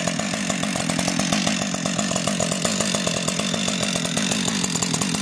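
Husqvarna two-stroke chainsaw running steadily at idle, an even pulsing engine note with no revving.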